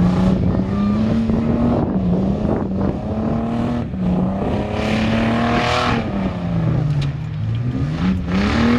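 Mud truck engine revving hard, its pitch rising and falling repeatedly, with a loud rushing noise about five to six seconds in.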